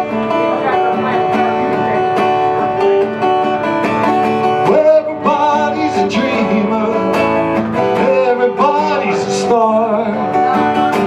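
Acoustic guitar strummed in an instrumental passage of a live song, with a wavering melody line sliding in pitch over the chords from about halfway through.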